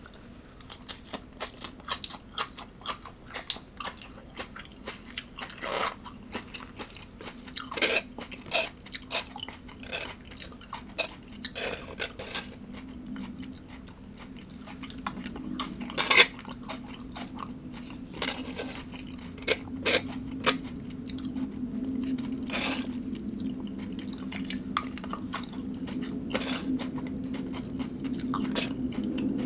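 A person chewing crunchy food close to the microphone, with irregular sharp crunches, a few of them much louder. A low steady hum grows louder in the second half.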